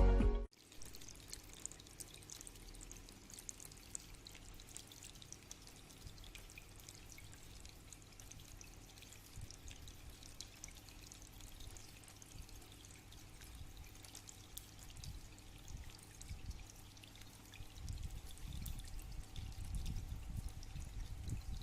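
Water trickling and dripping faintly in a small tabletop aquarium waterfall, with scattered small drip ticks; a low rumble grows louder near the end.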